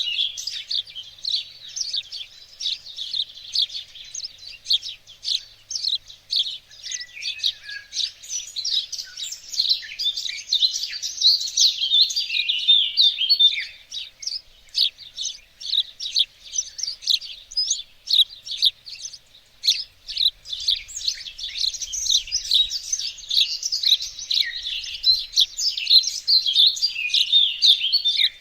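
Several songbirds singing and chirping together, a dense overlapping chorus of quick high chirps and trills.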